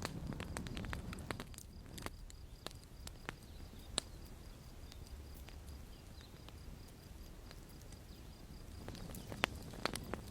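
Campfire crackling: irregular sharp pops and snaps of burning wood over a low rumble of the flames.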